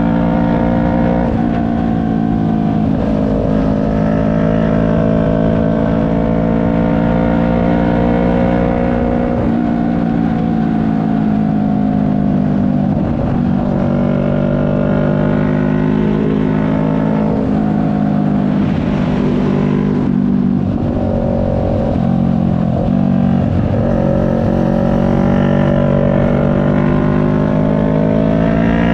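CFMoto 400NK's parallel-twin engine running under way, its pitch falling and rising a few times as the throttle is eased and opened, then climbing near the end as the bike accelerates.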